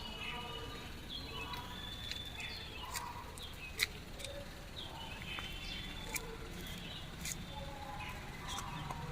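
Small birds chirping, with short high calls scattered throughout, over a low steady rumble. A sharp click near the middle is the loudest sound.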